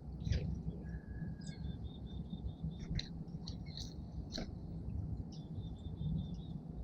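Small songbirds calling at a feeder: many sharp chips and several short, level trills, over a steady low background rumble.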